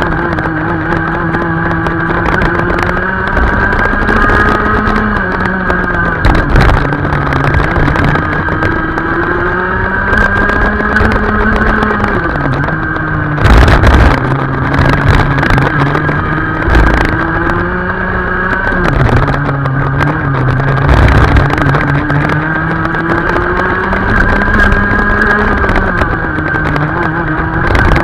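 Racing kart engine running hard through a lap, its pitch rising along the straights and dropping several times as it slows for corners. A few brief thumps, the loudest about halfway through.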